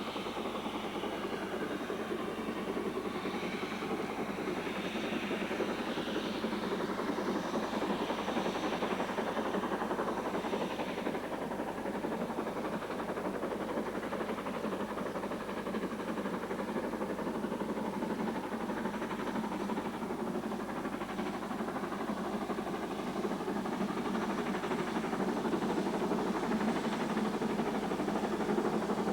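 LNER K4 2-6-0 steam locomotive working a train, a steady continuous rumble and hiss of the engine and its train on the rails.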